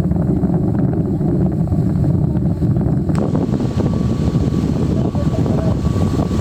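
Sightseeing boat's engine running steadily underway, a loud low rumble, with wind noise on the microphone; a hiss grows brighter about three seconds in.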